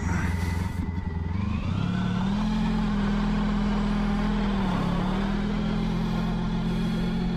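Motorcycle engine pulling away and rising in revs over the first couple of seconds, then running at a steady cruise, with a brief dip in revs about five seconds in.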